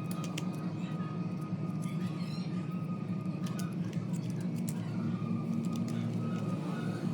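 A steady low hum with a faint steady tone above it, and scattered light clicks throughout.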